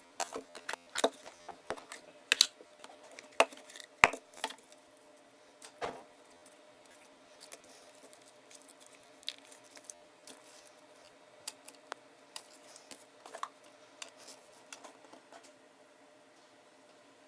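Glitter slime being squeezed and stretched by hand, giving irregular sticky clicks and pops. They come thick and loud in the first six seconds, then grow sparse.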